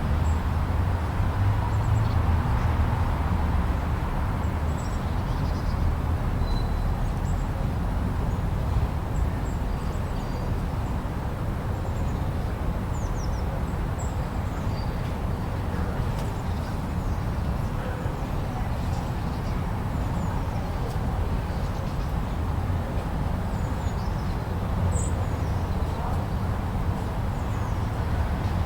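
Steady blizzard wind with a deep rumble and no gusting breaks, sprinkled with a few faint, short, high chirps.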